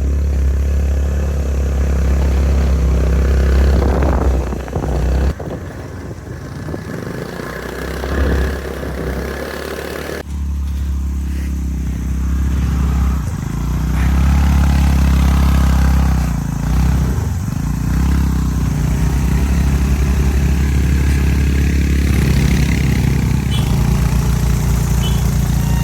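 A vehicle engine running with a strong low hum, rising and falling in places. The sound changes abruptly twice in the first ten seconds.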